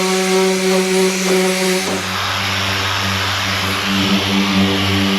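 A power tool running steadily, a hum with a strong hiss, which shifts in pitch and character about two seconds in.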